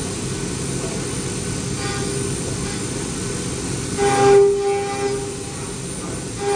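High-speed CNC milling machine spindle running and cutting, a steady machining noise. About four seconds in, a louder pitched whine swells for about a second as the cutter bites.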